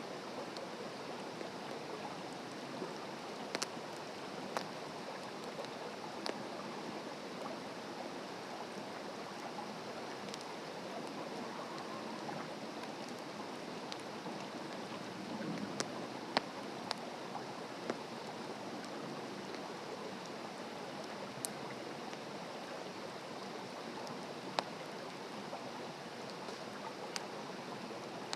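Open wood fire burning on the ground: a steady rushing hiss with occasional sharp crackles and pops every few seconds.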